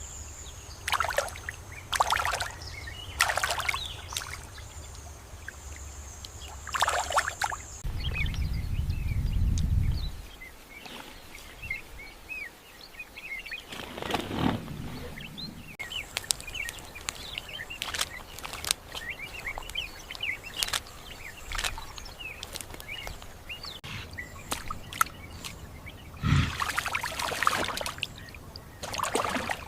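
Outdoor nature ambience with many small bird chirps and several short, noisy bursts, over a thin, steady high hiss. There is a low rumble about eight seconds in, lasting about two seconds.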